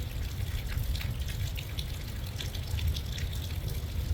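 Heavy thunderstorm rain, with scattered drops ticking close to the phone over a steady low rumble.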